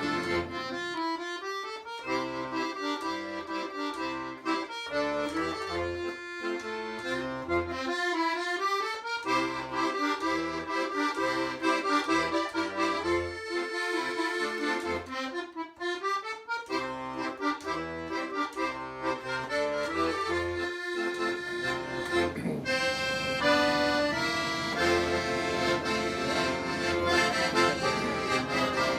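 Accordion music: a melody with quick rising and falling runs over separate bass notes, changing to a fuller, more sustained sound about three-quarters of the way through.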